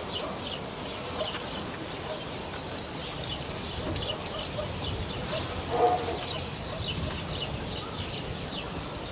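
Small birds chirping on and off over a steady outdoor background noise, with one short, louder sound about six seconds in.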